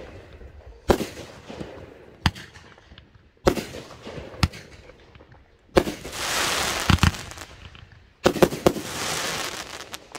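Consumer fireworks going off: a series of sharp bangs every second or so, with two spells of dense crackling, starting about six and eight and a half seconds in.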